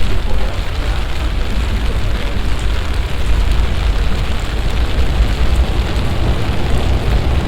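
Heavy summer downpour: a loud, steady hiss of rain with a deep rumble underneath.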